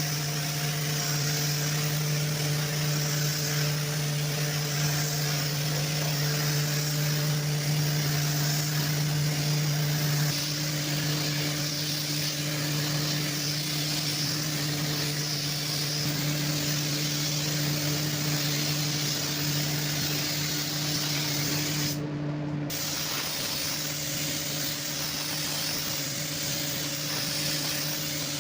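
Car spray-painting equipment running: a continuous airy hiss over a steady electric motor hum. The hiss breaks off for a moment about two-thirds of the way through, then carries on unchanged.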